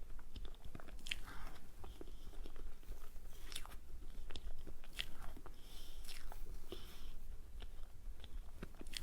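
Close-miked eating sounds of a person biting and chewing dessert: many small mouth clicks, with several louder bites spaced a second or two apart.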